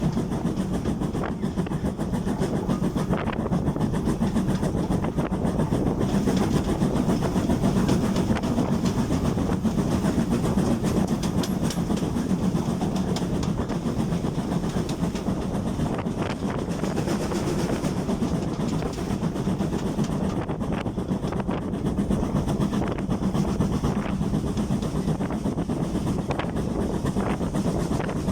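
Train running along the track: a steady rumble with scattered wheel clicks over the rail joints.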